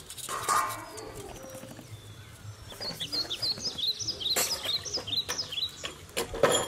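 Small birds chirping in quick runs of short high calls from about halfway through, with a few light knocks and scrapes, the loudest near the end.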